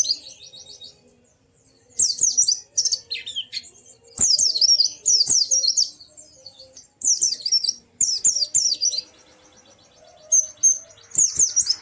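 White-eye (pleci) singing: bursts of rapid, high-pitched chirping phrases, about half a dozen in a row with short pauses between them.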